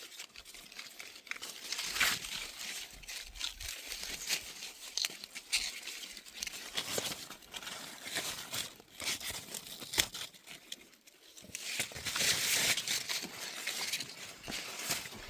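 Rustling and crinkling with many sharp snaps and clicks, thickening into a denser stretch of rustling about twelve seconds in.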